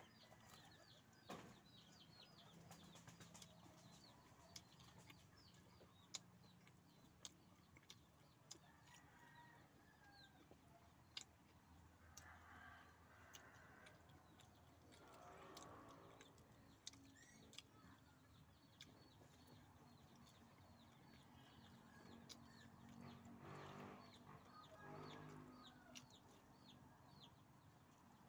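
Near silence: sharp mouth clicks from chewing now and then, with faint bird chirps and chickens clucking in the background.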